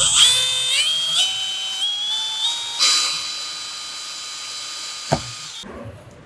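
Electric hand planer's motor and cutter block whining at high speed, the pitch stepping up several times before holding steady, then cutting off abruptly near the end. A single sharp click comes just before the stop.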